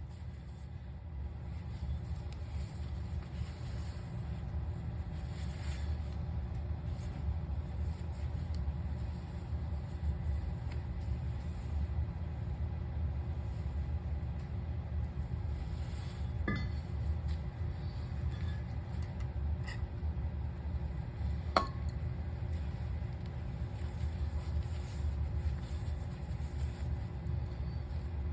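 A few sharp metallic clinks from tools and parts being handled, over a steady low rumble. The loudest clink comes about three-quarters of the way in.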